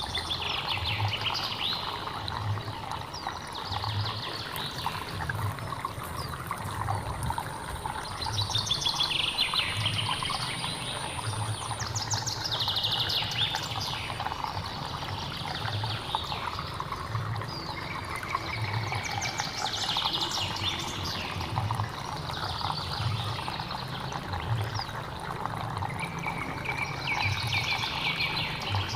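Stream water trickling and flowing steadily, while a bird repeats a short, rapid trilled call every few seconds, each call falling in pitch.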